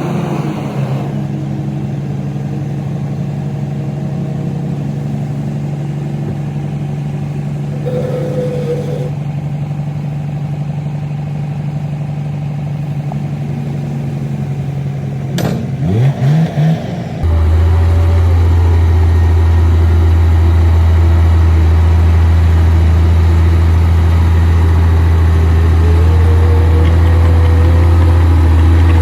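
Komatsu D58P bulldozer's diesel engine running steadily, with a short rise in revs and a sharp click a little past halfway. Soon after, the sound jumps abruptly to a louder, deeper drone.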